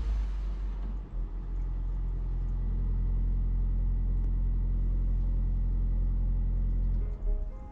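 Touchless automatic car wash machinery running with a steady low rumble and a faint high whine. A spray hiss fades out in the first second. Music comes in near the end.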